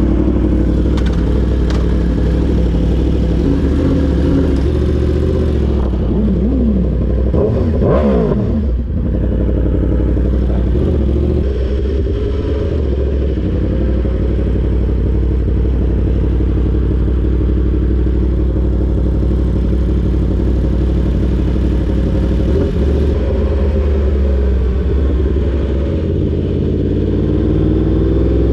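Litre-class inline-four sportbike engine running under way, revving up and down through a few gears about a quarter of the way in, then holding a steady cruise, and climbing in pitch again near the end as it accelerates.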